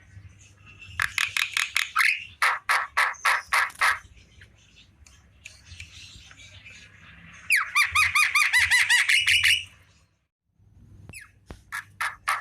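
Javan myna calling: loud, harsh, rapidly repeated notes in several bouts, with a longer ringing series in the second half.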